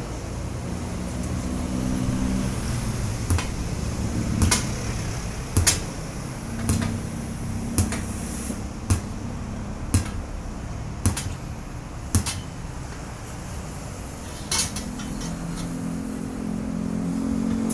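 Sharp metallic clanks, about one a second for ten strikes and then one more a couple of seconds later, over a steady low engine hum.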